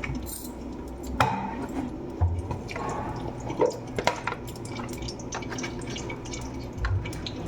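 A few sharp clicks and knocks at a cooking pan over a low steady hum.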